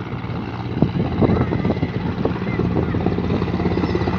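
Helicopter rotor beating rapidly and steadily, with a steady engine hum underneath.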